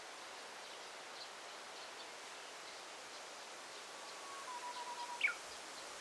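A bird singing in a forest: a held whistled note with a wavering level, dropping slightly in pitch, then a quick sharp high note, over a steady hiss of forest ambience with faint distant chirps.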